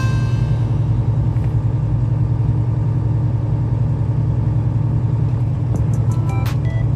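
Steady low rumble of a truck engine running.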